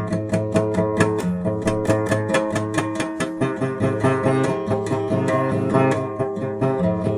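Guitar playing an instrumental piece: single notes picked in a quick, even rhythm over held low bass notes.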